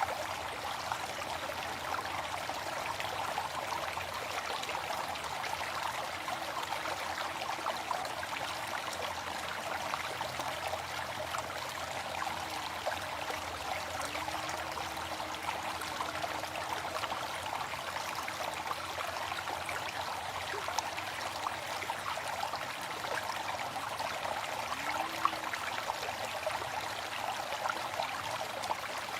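Waterfall: falling water rushing and splashing steadily.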